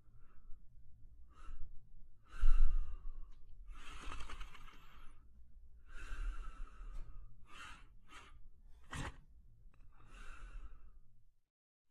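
Sleeping German Shepherd snoring and breathing heavily: a string of irregular breaths, some short and some drawn out, the loudest about two and a half seconds in.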